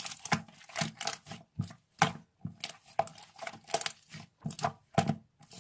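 A rapid, irregular series of sharp clicks and taps close to the microphone, several a second.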